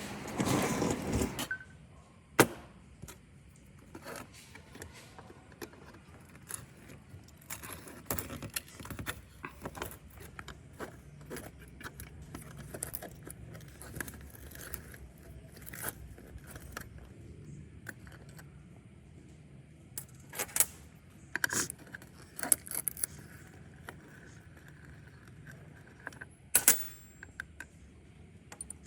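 Scattered clinks, taps and scrapes of small metal parts and tools being handled, with one sharp knock about two seconds in and busier bursts of clinking near the end.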